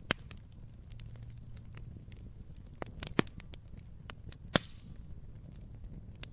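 Fire crackling: irregular sharp pops and snaps over a low steady rumble. The loudest pops come just after the start, about three seconds in, and about four and a half seconds in.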